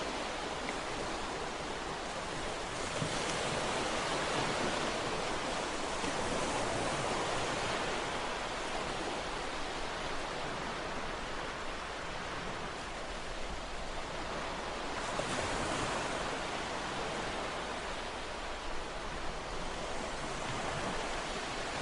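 Ocean waves breaking and washing on a shore, a steady surf hiss that swells gently a couple of times.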